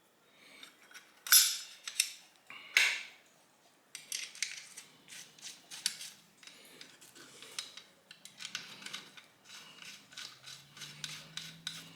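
Two loud metal clatters about one and three seconds in, then a long run of quick, light metallic clicks, typical of a ratchet wrench running in the Loctited bolts on a Turbo 400 transmission case.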